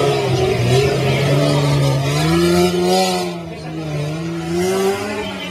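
Off-road rally 4x4's engine revving hard under acceleration, its pitch rising and falling.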